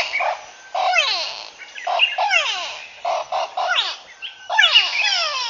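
A bird calling in about five bursts, roughly one a second, each burst a quick run of falling whistles.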